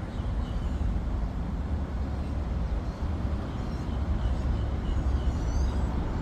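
Steady low outdoor rumble, like wind or distant traffic, with faint, short bird chirps repeating every half second or so and a few faint higher whistles near the end.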